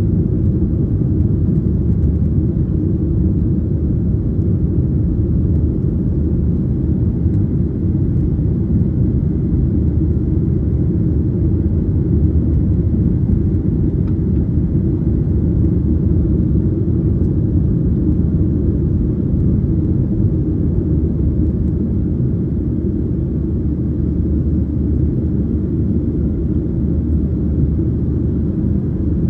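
Cabin noise aboard a Boeing 737-800 in flight: its CFM56-7B engines and the airflow over the fuselage make a steady, low, even noise with no change in level.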